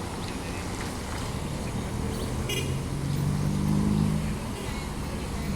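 Scania-chassis double-decker coach engine running, growing louder with its pitch rising slightly about three to four seconds in, then easing off. A short high squeak sounds about two and a half seconds in.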